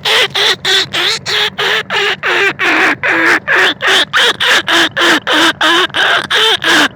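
Rat squealing calls used as a hunting lure for rice-field and bandicoot rats: short, harsh, pitch-bending squeaks repeated quickly and evenly, about three to four a second.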